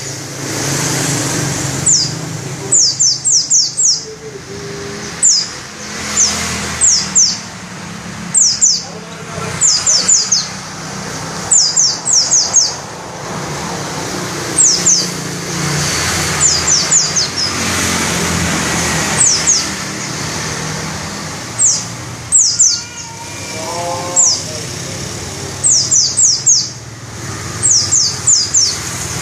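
Pleci dakun white-eye singing in shrill, rapid bursts of three to five sharply falling high notes, repeated every second or two.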